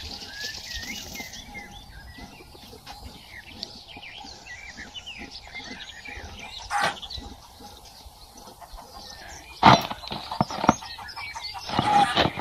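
Small birds chirping and twittering, with a few loud hen calls cutting in near the middle and twice near the end.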